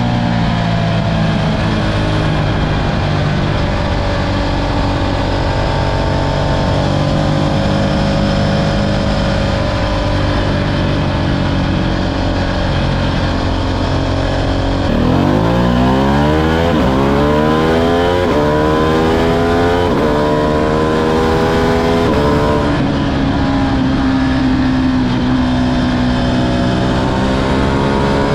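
Ducati Streetfighter V2's 955 cc L-twin engine heard onboard while riding: it runs at a steady, slowly falling pitch, then about halfway through it accelerates hard, revving up and breaking off several times in a row as it shifts up through the gears, before settling to a steady cruise that rises slightly near the end.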